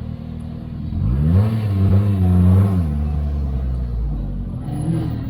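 Sports car engine revving: its note climbs about a second in, holds briefly, then drops back near three seconds, with a shorter blip near the end. Underneath, a steady low rumble of engines idling.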